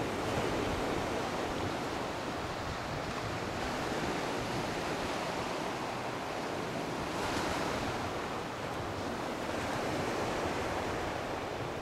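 Gentle Atlantic surf washing onto a sandy beach on a calm morning: a steady hiss of breaking waves that swells about 7 s in and again around 10 s.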